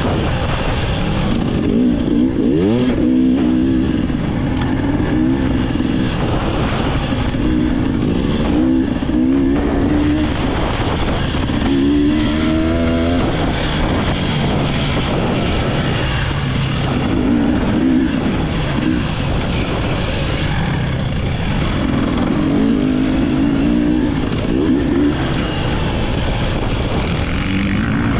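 Enduro dirt bike engine revving up and down over and over, its pitch climbing and dropping with the throttle, over a steady rumble of noise.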